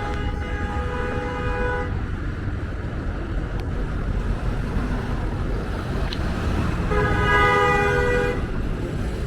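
A vehicle horn sounds two long blasts, each a chord of several steady tones. The first is already sounding and stops about two seconds in; the second comes about seven seconds in and lasts a second and a half. Under both runs a steady low traffic rumble.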